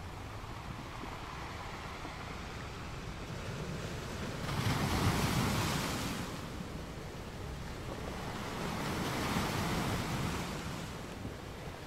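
Rushing water in a reef aquarium: a steady hiss that swells twice, like surf, about four and a half seconds in and again around nine seconds in.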